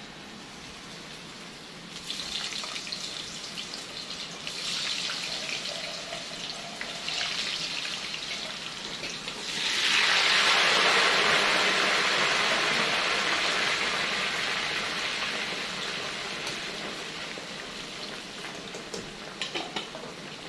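Frying sizzle on the stove: an uneven hiss from about two seconds in, then a sudden loud burst of sizzling about halfway through as potatoes go into hot oil, fading slowly over the following ten seconds.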